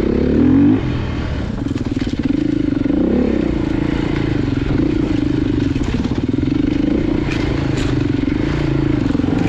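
Off-road motorcycle engine running on a trail ride, briefly revving up in the first second, then holding a steady throttle.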